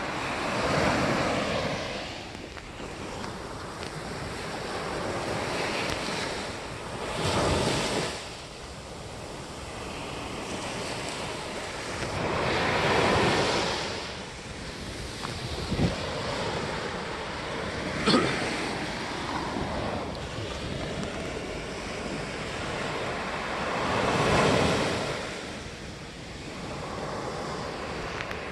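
Sea waves breaking on the shore in slow swells every few seconds, with wind buffeting the phone's microphone. Two brief sharp clicks are heard in the second half.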